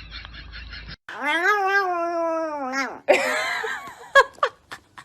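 A domestic cat gives one long drawn-out yowl of about two seconds that rises and then falls in pitch. It is followed by a harsher noisy cry and a few short sharp sounds.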